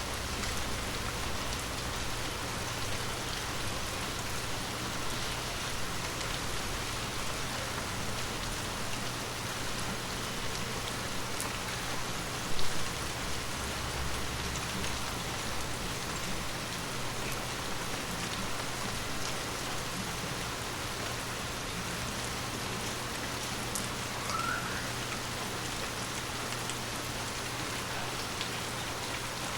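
Steady rain falling on forest leaves, a constant hiss of drops with scattered individual drops ticking through it. One louder thump about twelve seconds in, and a brief rising chirp near the end.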